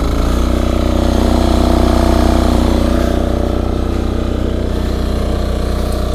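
Engine of a Yanmar A-10V walk-behind rotary cultivator running under load, working the soil in third gear. Its pitch rises at the very start, then it runs steadily.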